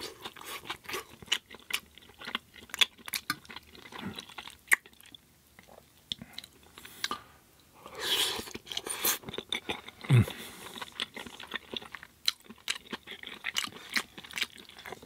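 Close-miked chewing of pasta with vegan sausage in tomato sauce: wet smacks and clicks of the mouth. A short low hum from the eater comes about ten seconds in.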